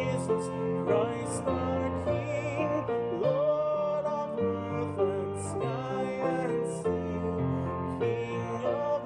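A hymn played on sustained keyboard chords, with a singing voice carrying the melody line and a wavering vibrato on some of the held notes. The chords change about once a second.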